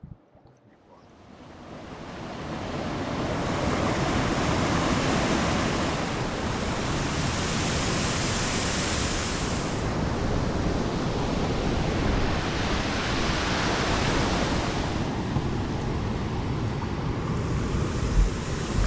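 Steady rushing roar of a waterfall, fading in over the first couple of seconds.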